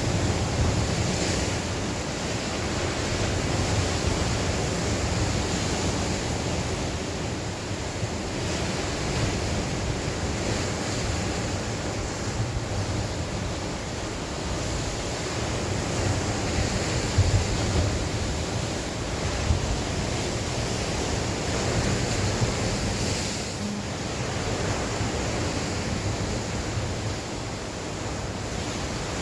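Sea waves washing continuously onto the shore, rising and falling gently, with wind gusting on the microphone and a brief louder gust about two-thirds of the way through.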